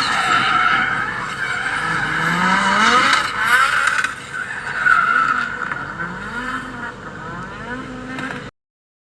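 Drift car sliding with its tyres screeching steadily while the engine revs rise and fall with the throttle. The sound cuts off suddenly near the end.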